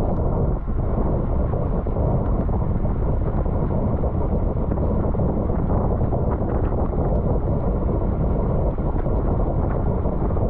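Wind buffeting the microphone of a camera on a racing bicycle moving at speed, a steady low rumble.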